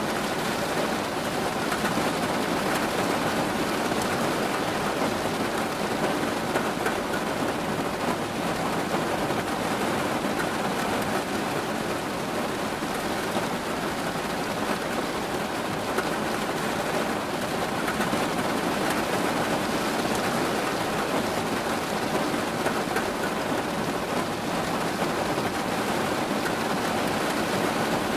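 Steady rain falling, an even patter of raindrops with no change in intensity.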